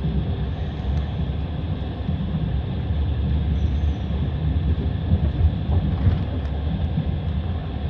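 Passenger train running, heard from on board: a steady low rumble of the wheels on the rails, with the clatter of the wheels (стук колёс) and a few louder knocks around the middle.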